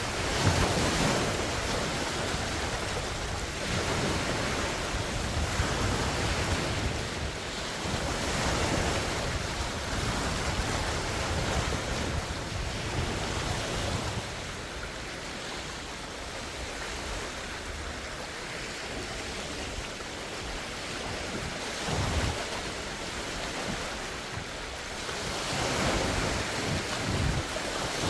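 Large wind-driven lake waves breaking and washing on the shore, swelling and easing every few seconds, with strong wind and gusts rumbling on the phone's microphone.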